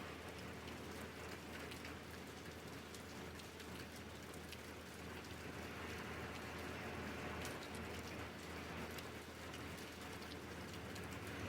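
Steady rain falling: an even hiss of rain with many small, sharp drop ticks scattered through it.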